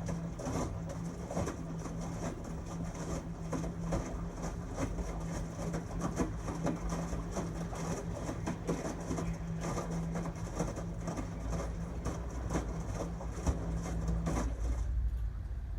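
LG Tromm WD-CR101C front-loading drum washing machine in its quick wash cycle: the drum motor hums steadily while the laundry and water tumble with irregular knocks and splashes. The motor stops near the end, leaving a low rumble.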